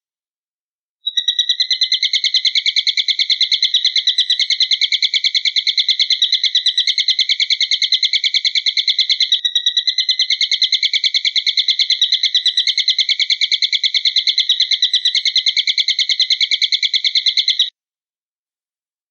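Recorded eagle call: a rapid, even train of high chirps, about ten a second, starting about a second in, with a brief hitch midway, and stopping near the end.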